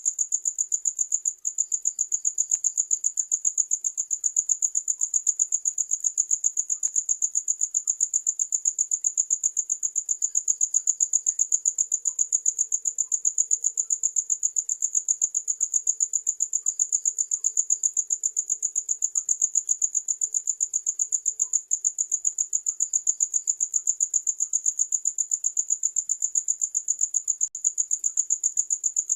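Cricket chirping: one steady, high-pitched trill made of rapid, even pulses that never lets up.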